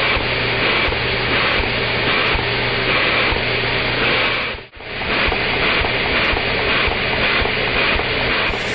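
Lego vacuum engine with overhead cam and poppet valves running on suction, heard slowed down with slow-motion footage: a lowered, pulsing rush with a steady hum underneath. It drops out briefly about halfway. Near the end it returns to normal speed as a fast, even clatter.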